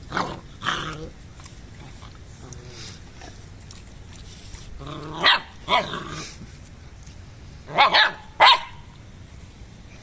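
American Bully dogs barking: about five short barks, one at the start, a pair around five and a half seconds in and another pair around eight seconds in.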